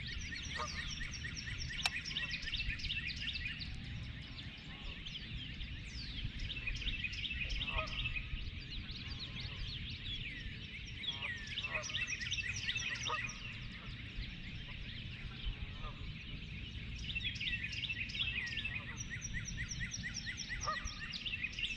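Many wild birds singing and calling together: a dense, continuous chorus of rapid chirps and trills, with a few short, lower honking calls of waterfowl at intervals.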